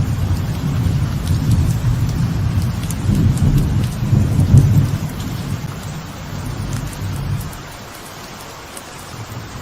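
Light rain falling on a veranda, with a long roll of thunder rumbling underneath. The thunder swells about halfway through and dies away near the end.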